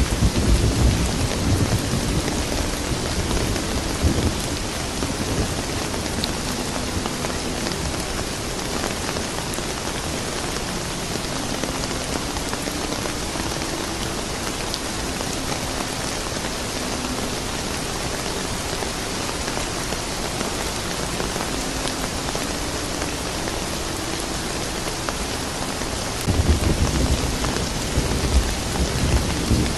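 Steady rain falling, an even hiss, with low rolling thunder rumbling in the first few seconds and again near the end.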